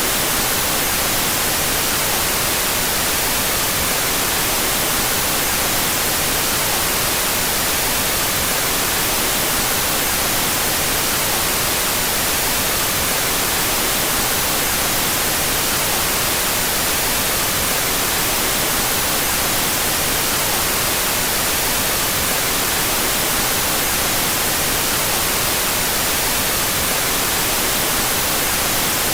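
Steady, unchanging white noise: an even hiss across the whole range, brightest in the treble, played with the left and right channels out of phase.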